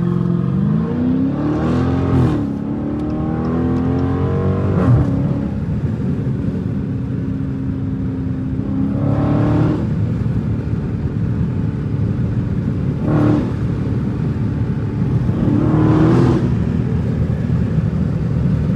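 Straight-piped Dodge Challenger Scat Pack's 6.4-litre HEMI V8 accelerating, its pitch rising then falling over the first few seconds, then cruising steadily. Three brief louder blips come about ten, thirteen and sixteen seconds in.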